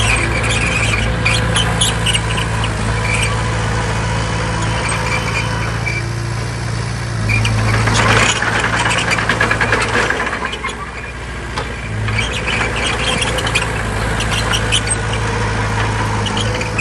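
Crawler bulldozer working, its diesel engine running steadily with scattered short high-pitched squeaks and clanks of the kind steel tracks make. The engine noise swells about eight seconds in, then eases.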